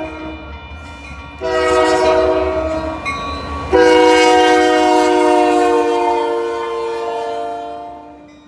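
Union Pacific locomotive's multi-note air horn: a short blast about a second and a half in, then a long loud blast that fades out near the end, over the low rumble of the train.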